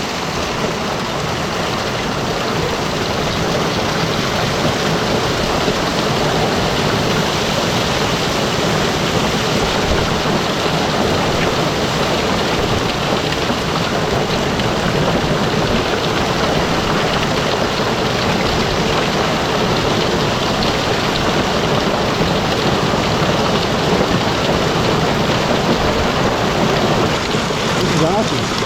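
Heavy monsoon downpour with half-inch hail coming down, a loud steady rush of rain and hailstones hitting the ground.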